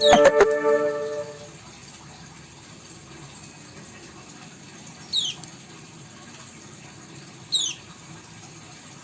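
A short clatter with a ringing tone that fades over about a second and a half, then a small cage bird gives two short, high chirps that drop in pitch, a couple of seconds apart, over a steady low hiss.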